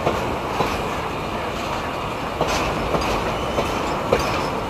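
Goods train of enclosed car-carrier wagons rolling past: a steady rumble of steel wheels on rail, with about six sharp clacks, mostly in pairs, as the wheels cross rail joints.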